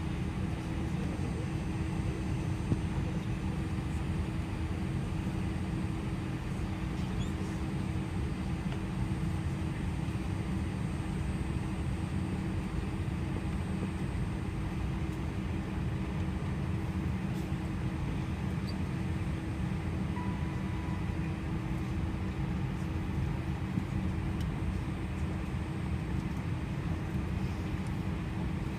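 Steady cabin noise inside an Airbus A320-211: an even rush of air with a constant low hum.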